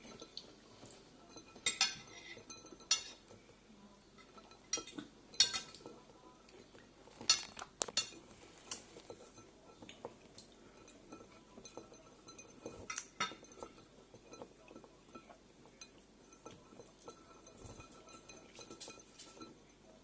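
Irregular sharp clinks and taps on a glass dish, a few louder ones among many quieter ticks, as a budgie bathes in it and pecks at it.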